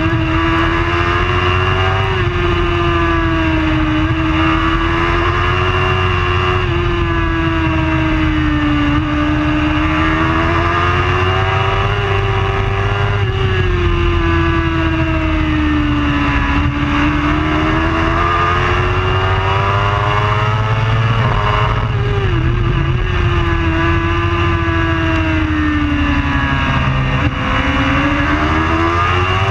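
Racing superbike engine running continuously at high revs. Its pitch rises and falls in slow waves every few seconds as the bike accelerates and slows, with a sudden drop in pitch a little over twenty seconds in.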